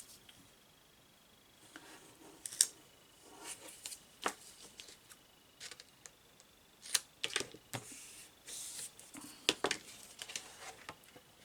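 Scattered clicks, taps and short rustles of hands handling double-sided tearing tape and its paper backing on a metal tin, with a few sharper ticks.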